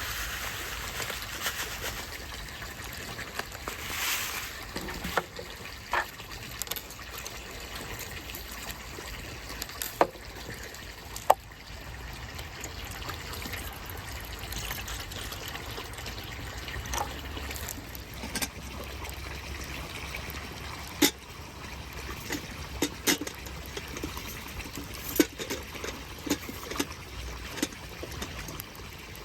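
Water trickling steadily, with a scattering of sharp clicks and pops over it.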